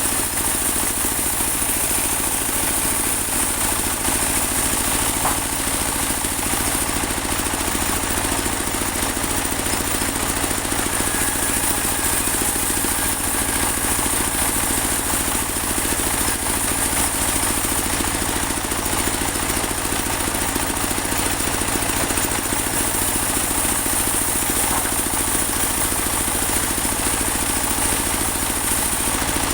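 Portable bandsaw sawmill running steadily: a dense engine drone with a high, steady whine on top.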